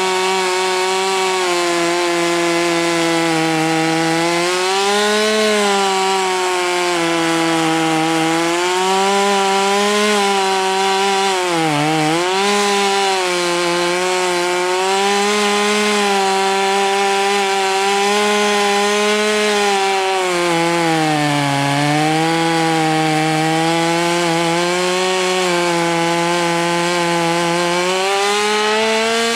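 Chainsaw running at high revs, cutting into a dead green ash tree. The engine note stays steady, sagging briefly as the chain loads up in the cut, most sharply about twelve seconds in and again around twenty-two seconds.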